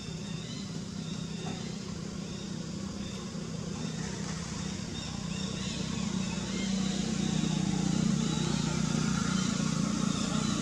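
A motor vehicle's engine running steadily, getting louder from about six seconds in, with faint short high chirps over it.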